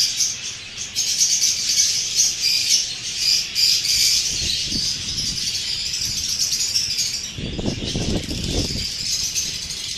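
Many aviary parrots chirping and chattering in a dense, continuous high chorus, with a brief lower flutter about seven to nine seconds in, like wings flapping.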